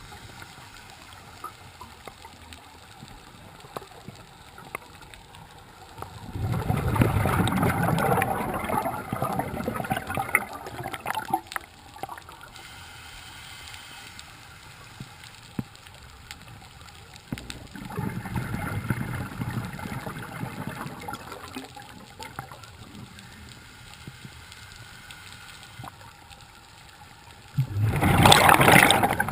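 Scuba diver's exhaled breath bubbling out of a regulator underwater: three gurgling bursts of bubbles several seconds apart, with quiet between them.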